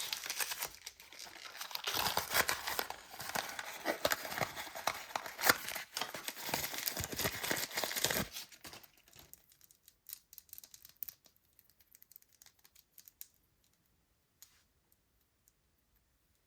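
Toy packaging being crinkled and torn open by hand: a dense crackling that stops about eight seconds in, followed by a few faint scattered clicks and taps.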